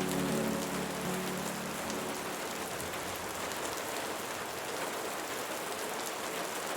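Steady rain falling: an even hiss with fine scattered drop ticks. The last notes of soft music fade away in the first moment.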